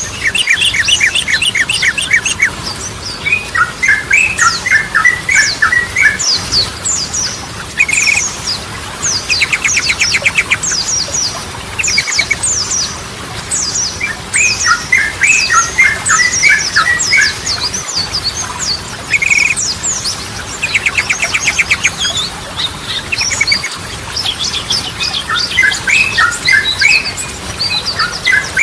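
Yellow-vented bulbul (trucukan) singing: fast rattling trills and sharp chirps in a phrase repeated about every six seconds.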